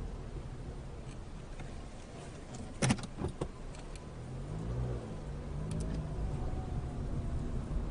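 Car engine idling, heard from inside the car, with a short cluster of sharp clicks about three seconds in. In the second half an engine note rises and the sound grows louder.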